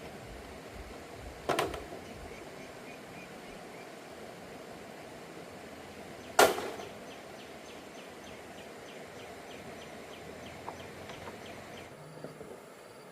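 Two sharp knocks about five seconds apart, the second louder, each with a short ringing tail, followed by faint repeated ticking about three times a second.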